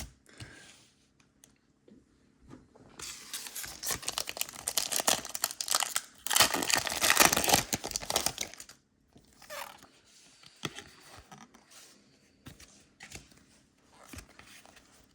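Foil Pokémon booster pack being torn open, its wrapper crinkling, in two noisy stretches of a couple of seconds each around the middle, followed by faint rustles and clicks.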